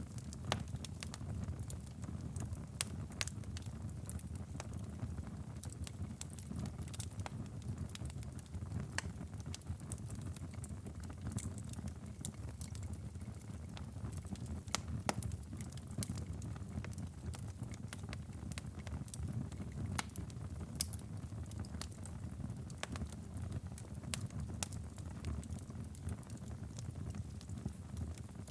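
Wood fire in a stone fireplace crackling, with irregular sharp pops scattered throughout over a steady low rumble.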